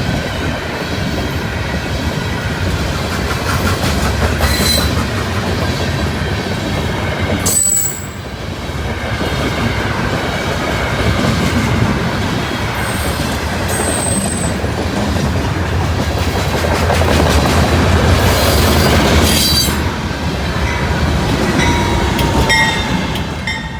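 Covered hopper cars of a potash unit freight train rolling past, with steady rumble and clickety-clack and short high-pitched wheel squeals now and then. Wind buffets the microphone throughout.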